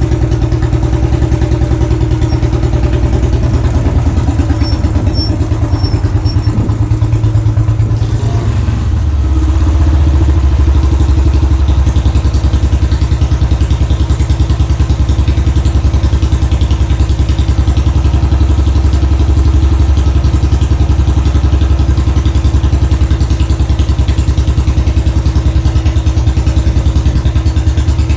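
Royal Enfield Classic 500's single-cylinder engine running at idle through its exhaust, with a steady thumping beat. About nine seconds in, the note shifts and gets slightly louder, then holds steady.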